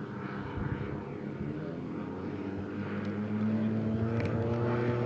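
Model engines of a radio-controlled scale B-25 bomber running steadily in flight, with a propeller drone that grows louder about three seconds in.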